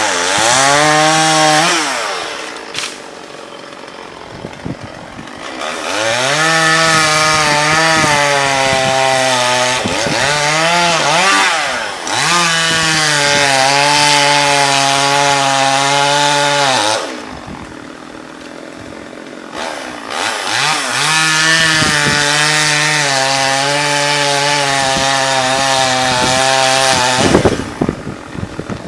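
Two-stroke chainsaw run at high revs in three long spells while cutting wood. It drops back to a quieter idle twice between spells, with a few short throttle blips in the middle spell.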